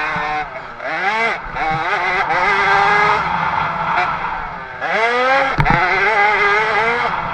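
50cc two-stroke motocross bike engine revving hard, its pitch climbing steeply as it accelerates twice, once about a second in and again about five seconds in, then holding high. A sharp knock sounds just after the second climb.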